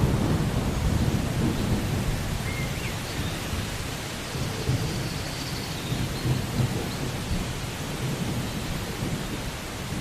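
Steady rain hissing, with a low rumble of thunder that is loudest at the start and dies away over the first few seconds.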